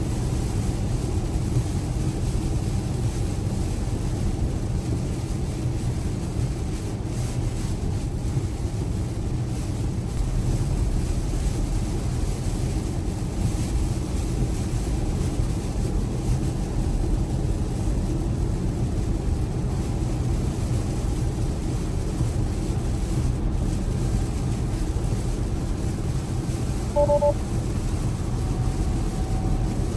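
Steady rumble of tyre, road and rain noise inside a Tesla cabin, driving on wet roads in heavy rain. Near the end a short electronic chime sounds once.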